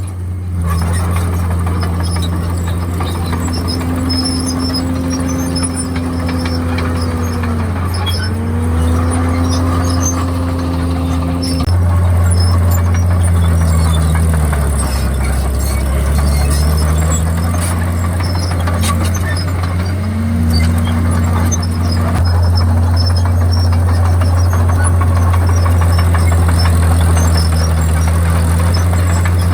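Komatsu D51PX bulldozer's diesel engine running with a steady low drone, its pitch dipping and recovering several times as it takes load.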